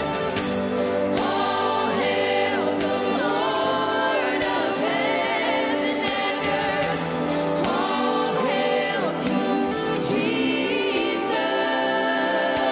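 A group of singers performing a gospel worship song with sustained instrumental accompaniment.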